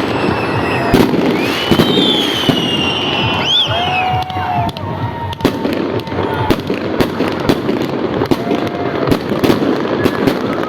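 Fireworks and firecrackers going off continuously: many sharp bangs over dense crackling, with whistles gliding in pitch about two to four seconds in.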